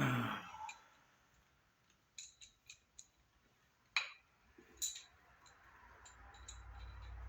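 A knock at the start, then scattered light metallic clicks and clinks from a double-roller timing chain and gear set being handled, with a faint low hum building near the end.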